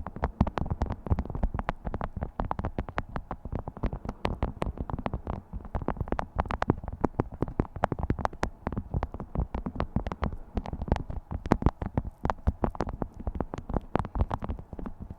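Beeswax food wrap being crinkled and handled: a dense, irregular crackling of many small sharp crackles, steady throughout.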